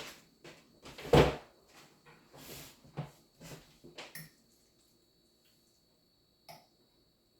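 Close-miked eating sounds: a quick run of chewing and mouth noises, loudest about a second in. After about four seconds it goes quiet apart from a single click.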